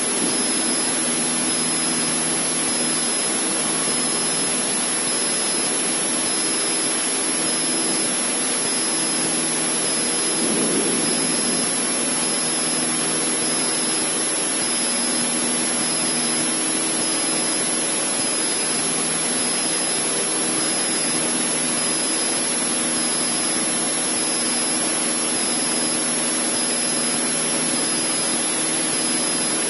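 Cessna 152's four-cylinder Lycoming engine and propeller running steadily at climb power, a constant drone with a slight swell about ten seconds in.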